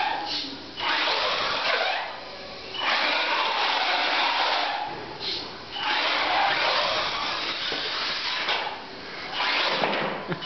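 Exceed RC truck's brushless electric motor and drivetrain running in repeated bursts of throttle, four spells of one to three seconds each with short lulls between.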